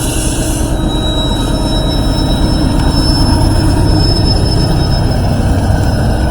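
Norfolk Southern train passing close by, a loud steady rumble of wheels on the rails with a thin, high wheel squeal drawn out over it.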